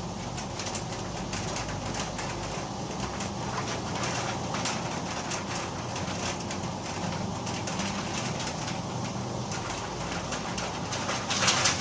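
Heavy rain with wind in a steady pouring hiss, thick with the patter of drops. A louder rush comes near the end.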